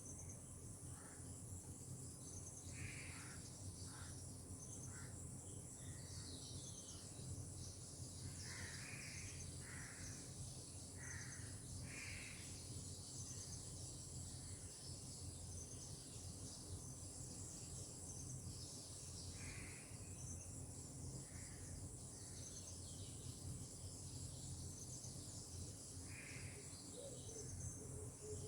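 Tropical outdoor ambience: a steady high insect trill, with a bird giving about a dozen short calls at uneven intervals, over a faint low steady rumble.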